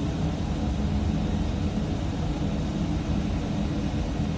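Steady roar of strong storm wind: a low rumble with a hiss over it, shaking the house.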